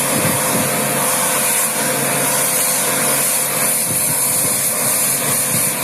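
Electric pressure washer running steadily, its water jet spraying with a loud, even hiss over a motor hum, as used to wash down an air conditioner.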